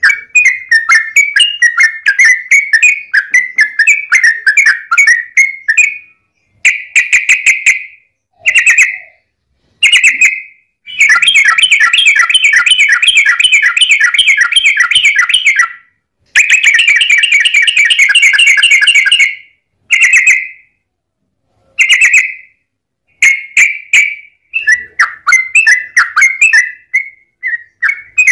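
Yellow-vented bulbul (trucukan) singing in fast chattering runs of rapidly repeated notes: short bursts at first, two long unbroken trills in the middle, then broken phrases again. The gaps between phrases are completely silent.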